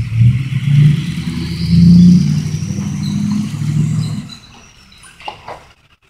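Truck engine revving in surges, its pitch rising and falling, then dropping back to quiet about four seconds in; a couple of short knocks follow near the end.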